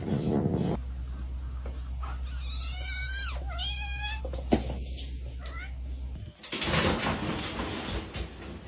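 A cat meowing: two drawn-out, wavering calls about two seconds in, one right after the other, over a low steady hum.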